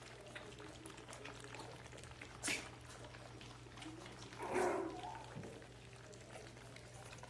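Biewer terrier puppy giving a short yip or whimper a little past halfway, with a sharp click a couple of seconds earlier and small scuffling noises over a steady low hum.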